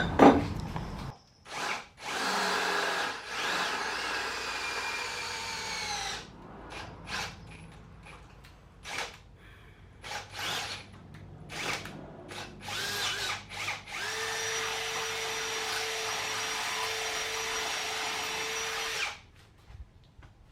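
Power drill running twice while drilling out a hole in a metal jockey-wheel fitting. The first run lasts about four seconds with its pitch sinking as it works; the second, near the end, is a steady run of about five seconds. Light knocks and clatter of metal parts come between the runs.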